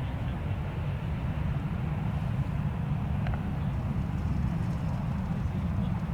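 Low, steady rumble of a Boeing 737-800's CFM56 jet engines in reverse thrust as the airliner slows on the runway after touchdown, swelling slightly.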